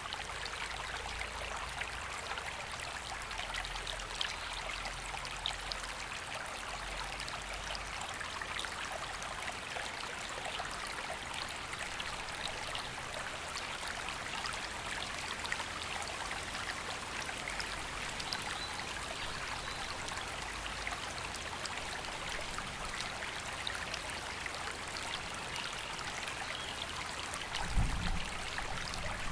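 River water flowing steadily, an even rushing sound with no let-up. A brief low thump near the end.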